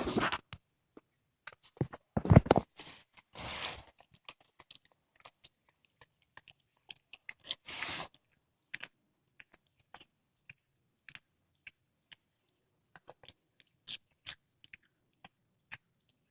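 A cat chewing and crunching through a squirrel carcass: irregular bites and crunches, the loudest in the first few seconds and about halfway, thinning to scattered small clicks later.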